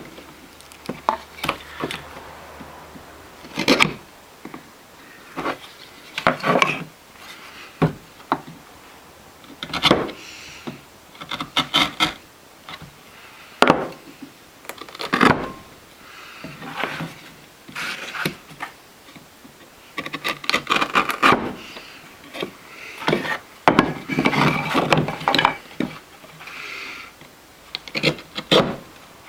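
A knife blade paring and scraping wood in short, irregular strokes, with a few sharp clicks in between.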